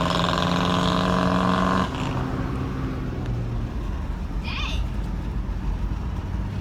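Straight-piped V8 exhaust of a 1993 Chevy Caprice, held at steady revs. About two seconds in it drops suddenly to a quieter, lower running.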